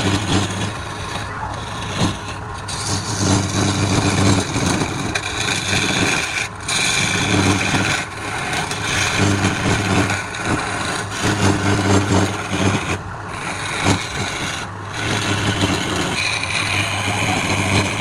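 Wood lathe running with a steady motor hum while a turning tool cuts into the spinning wood, giving a continuous scraping hiss. The cut breaks off briefly a few times.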